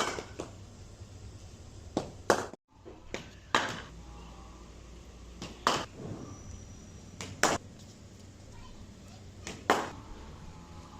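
Cricket ball struck on a BDM cricket bat again and again: sharp cracks every one to two seconds, several coming in close pairs a fraction of a second apart.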